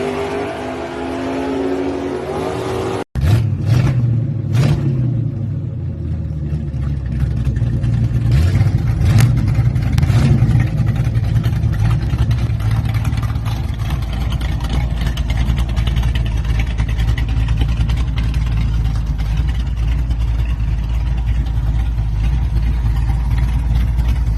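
Car engine revving, its pitch rising and falling. About three seconds in, it cuts to another engine running with a deep, steady rumble and a few sharp cracks just after the cut.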